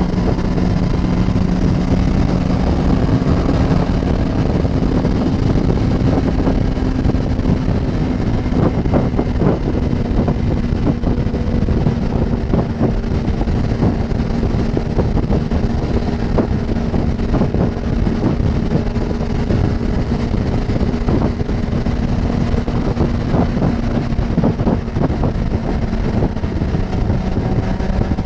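Motorcycle engine running at a steady cruising speed on the road, with wind buffeting the microphone.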